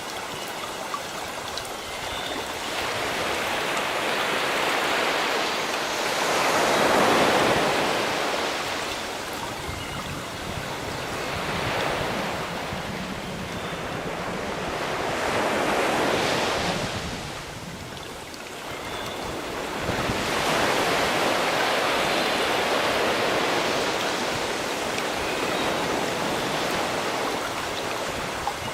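Sea waves breaking and washing in, swelling and ebbing every few seconds in a steady surf.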